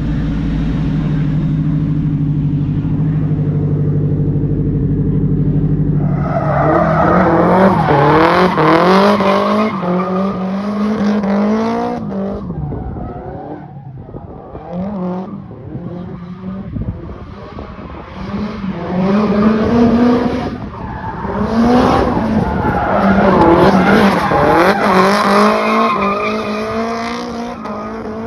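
Nissan Silvia S13 drift car: the engine holds a steady note for about six seconds, then is revved hard up and down again and again as it drifts, with tyres squealing.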